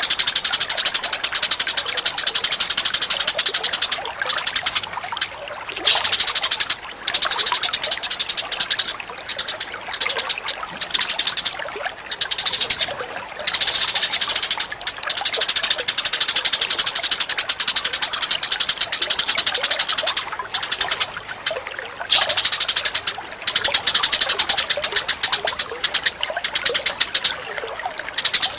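Bird song-training recording of rapid, high-pitched chattering bird calls in long runs broken by short gaps.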